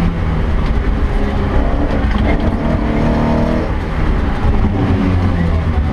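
Opel Ascona B rally car's engine heard from inside the cabin, running hard on a special stage. The note eases off briefly about two-thirds of the way through, then pulls again.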